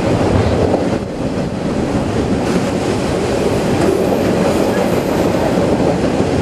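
Autorack freight cars rolling past, steel wheels on rail making a steady, loud rolling noise with a few faint clicks.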